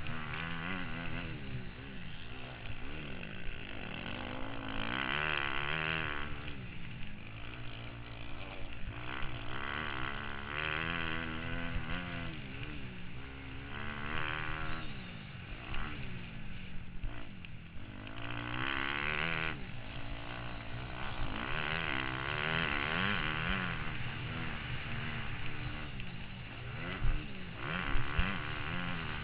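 Motocross bike engine revving up and dropping back again and again as it is ridden round the track, heard from the rider's helmet over rushing noise, with a few sharp knocks near the end.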